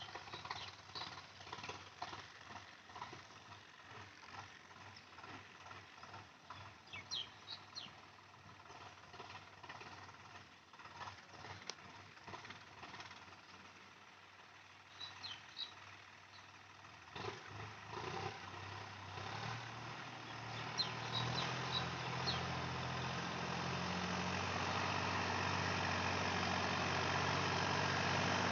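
Irregular clatter and knocks, then a tractor engine comes in about two-thirds of the way through and runs steadily, growing louder toward the end.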